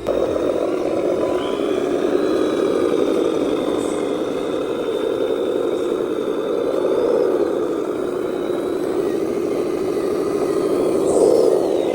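Radio-controlled scale dump truck driving: a steady mechanical running noise with a thin high whine that rises and falls, typical of an RC drivetrain.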